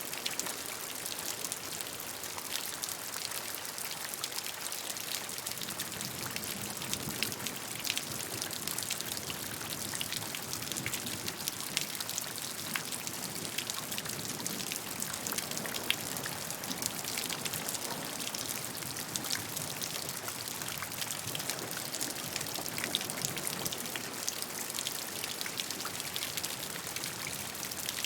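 Steady rainfall: a constant hiss dotted with many separate drops striking a surface.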